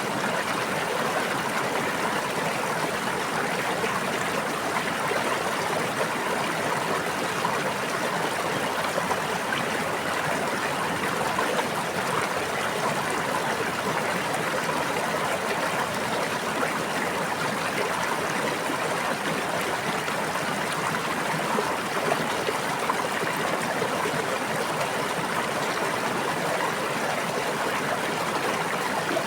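A stream of running water flowing steadily and evenly, with no swells or breaks.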